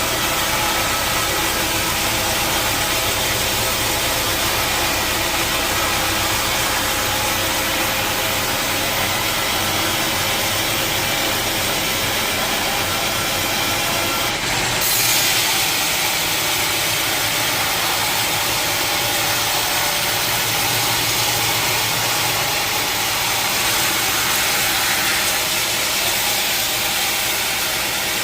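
Sawmill wheel saw machinery running steadily with a dense mechanical noise, with a brief louder surge about halfway through.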